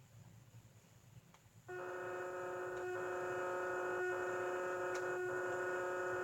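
Electronic warning tone: a steady buzzy chord of several pitches comes on about two seconds in and holds for about five seconds, broken by three very short dropouts about a second apart.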